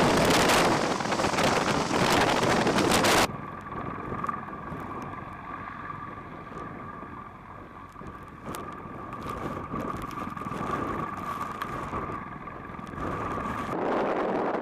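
Helicopter noise: a loud rushing roar that cuts off suddenly about three seconds in, giving way to a quieter steady whine, then rises again near the end.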